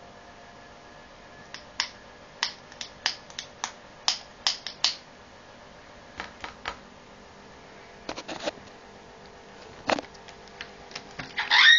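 African grey parrot making a run of sharp, separate clicks and taps while playing, fastest in the first few seconds. A short, loud call near the end.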